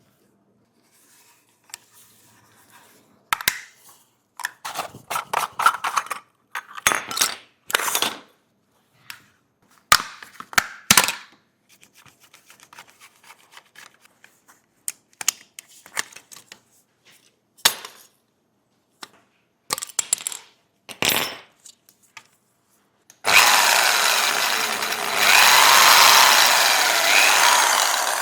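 Small metal parts and hand tools clicking, tapping and scraping in short bursts, then a small power tool running for about five seconds near the end and winding down.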